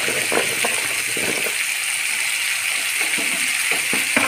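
Moringa drumstick pieces and spiced potato masala sizzling in oil in a nonstick frying pan: a steady hiss with scattered light clicks and knocks.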